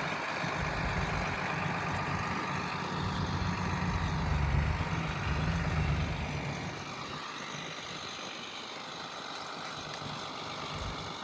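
John Deere 8450 tractor's turbocharged six-cylinder diesel engine running steadily, its low drone louder for the first six seconds or so and then dropping to a quieter level.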